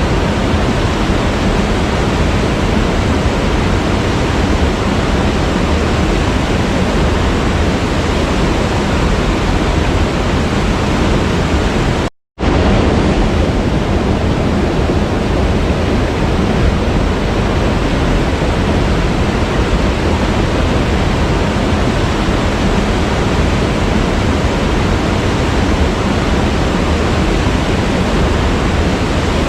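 Steady rushing of a waterfall, a dense, even noise heaviest in the low and middle range, broken by a split-second dropout to silence about twelve seconds in.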